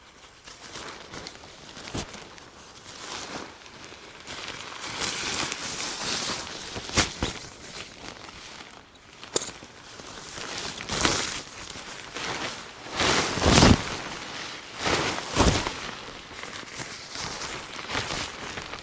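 Footsteps and the rustling, crinkling handling of a tarp and camping gear while a shelter is pitched. There are irregular louder bursts of noise and a few sharp clicks, the loudest about two-thirds of the way through.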